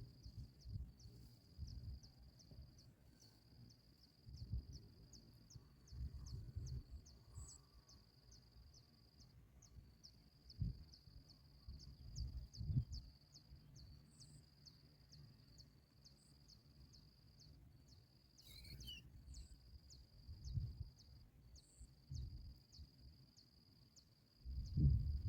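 An insect trilling steadily at a high pitch, with regular ticks about two to three a second and a few short breaks, over irregular low rumbling bumps.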